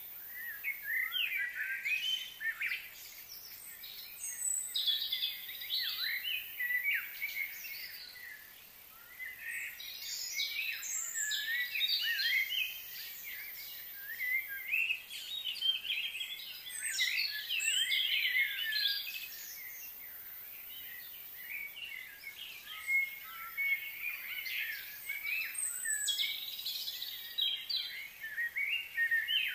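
Several birds chirping and singing in busy clusters of quick, sliding chirps that swell and fade every few seconds, over a faint steady high hiss.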